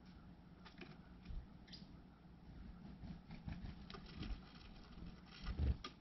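Faint small taps, scratches and rustles of a Carolina wren hopping about a shelf among dry leaves and nest twigs, with a louder low thump near the end.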